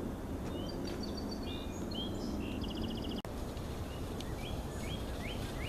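Small birds calling: short chirps and a quick trill, then a run of sliding notes that comes faster toward the end, over a steady low background rumble.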